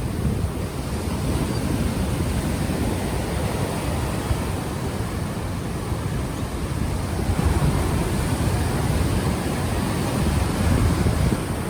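Ocean waves washing in on the shore under a heavy low rumble of wind buffeting the unshielded microphone, the surf swelling a little about two-thirds of the way through and again near the end.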